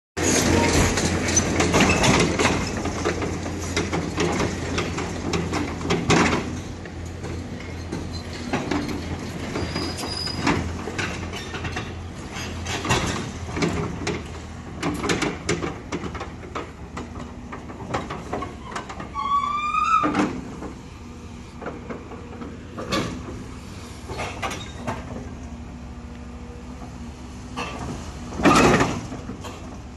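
Doosan DX380LC crawler excavator running, its engine humming steadily under repeated metallic clanks and knocks. A short rising squeal comes about two-thirds of the way through, and a loud clank or burst near the end.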